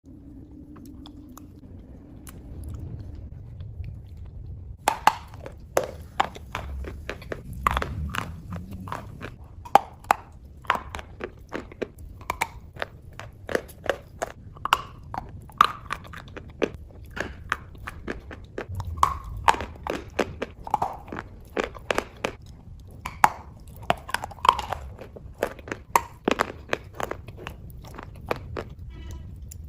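Close-up biting and chewing of chalk coated in clay paste: after about five seconds of low handling rumble, a long run of crisp, sharp crunches, one to three a second.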